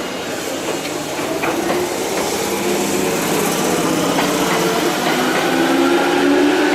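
Electric train at the platform pulling away, its motor whine rising slowly in pitch and getting louder over a steady rumble.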